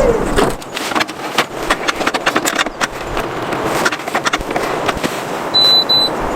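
Irregular sharp clicking and clattering from things being handled. Near the end, a high electronic beep starts repeating about twice a second: a device's warning beep.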